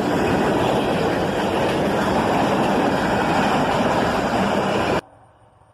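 A freight train running past at close range, with a GE ES44AH diesel locomotive working as a mid-train distributed-power unit among the cars. The loud, steady rumbling noise cuts off abruptly about five seconds in.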